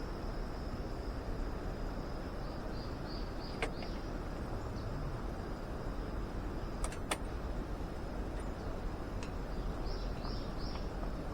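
Outdoor campsite ambience: a steady background hiss under a continuous high thin tone, with a bird calling twice in quick runs of three or four short notes. A few sharp clicks sound, one about four seconds in and two close together about seven seconds in.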